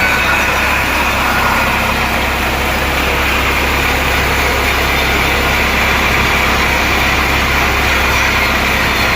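Sawmill machinery running steadily, a loud, even mechanical noise with no pauses.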